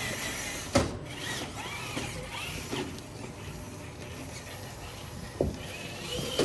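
Traxxas TRX-4 RC rock crawler's electric motor and gear drivetrain whining, the pitch rising and falling as the throttle changes. A sharp knock comes about a second in and another near the end.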